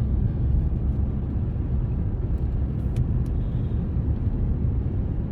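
Steady low rumble of road and engine noise inside a moving vehicle's cabin, with a couple of faint clicks about halfway through.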